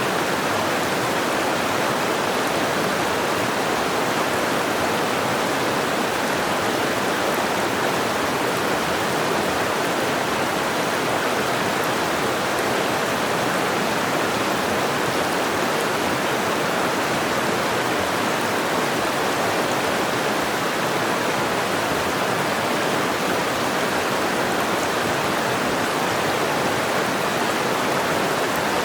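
Mountain river rushing over rocks: a steady, even wash of flowing water with no breaks.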